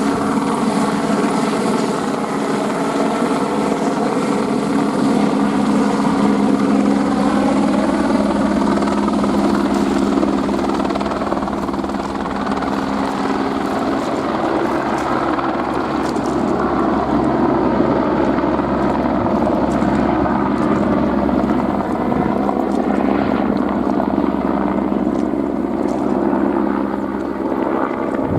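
Airbus AS350 helicopter flying, a steady rotor and single-turbine drone whose pitch slowly rises and falls as it moves.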